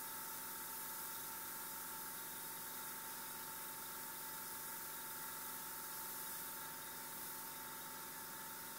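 Airbrush spraying paint: a steady hiss of air, with faint steady tones underneath.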